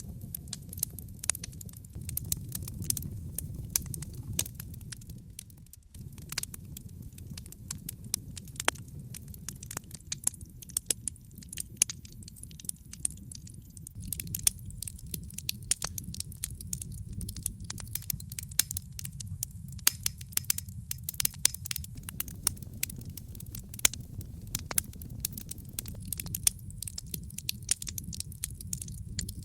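Wood fire crackling in a fireplace: frequent sharp, irregular pops and snaps over a steady low rumble of burning. The rumble drops out for a moment about six seconds in.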